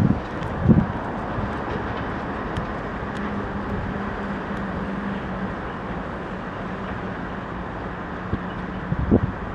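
Wind and road noise from riding an e-bike, with a steady low hum and a couple of short bumps, one just under a second in and one near the end.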